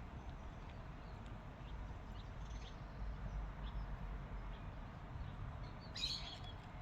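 Small birds chirping in short, scattered calls, with a brighter burst of chirps about six seconds in, over a steady low outdoor rumble.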